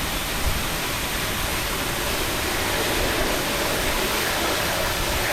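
Steady rushing wind noise buffeting the microphone on a moving chairlift, with an uneven low rumble underneath.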